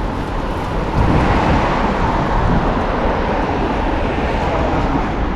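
Steady road traffic noise, a continuous rush with a low rumble.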